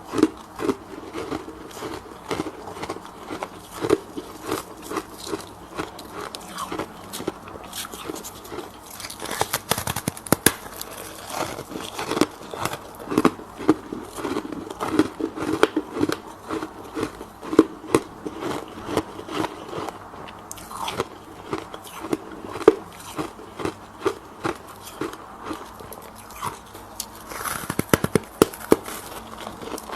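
A person biting and chewing freezer frost close to the microphone: a run of crisp, irregular crunches, several a second, as the packed ice crystals break between the teeth.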